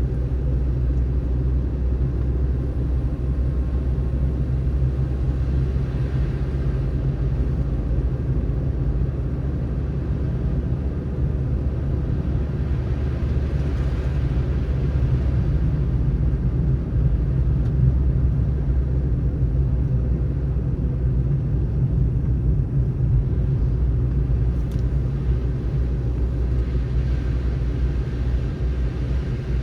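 Car driving on a snowy road: a steady low rumble of tyres and engine, with a slight swell about halfway through.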